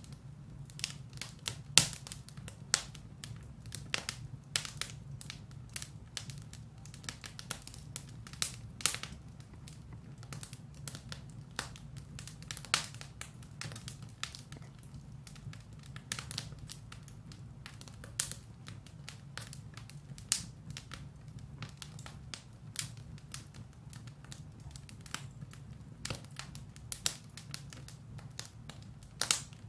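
Firewood burning in a fireplace: irregular sharp crackles and pops over a steady low rumble of the fire.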